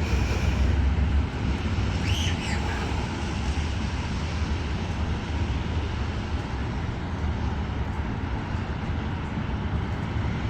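Steady low rumble of wind buffeting the microphone outdoors as a storm approaches, with a bird chirping briefly about two seconds in.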